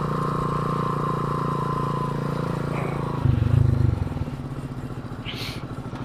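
Small motorcycle engine on a motorised BMX bicycle running. About three seconds in it gives a brief louder burst, then settles to a quieter, evenly pulsing idle. A short high chirp comes near the end.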